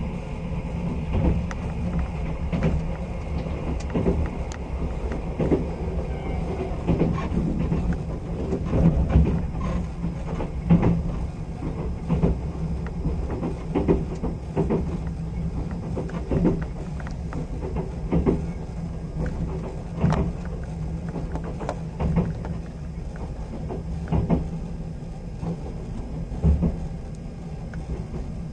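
Sleeper train coach running on the rails, heard from inside the passenger compartment: a steady low rumble with irregular sharp clacks from the wheels on the track.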